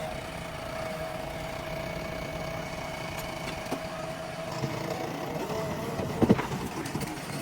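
JCB 3DX backhoe loader's diesel engine running steadily with a held whine, and a sharp metallic knock about six seconds in.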